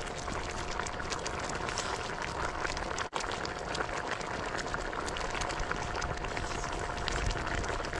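Pot of cured pork rib and radish stew simmering over a wood fire, bubbling steadily with fine popping, and a brief break about three seconds in.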